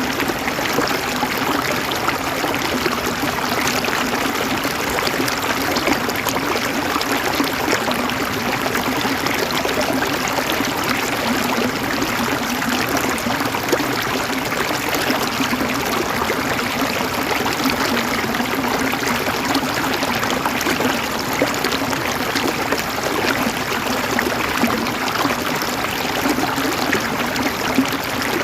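River water flowing steadily over rocks, a continuous even rushing and babbling with no let-up.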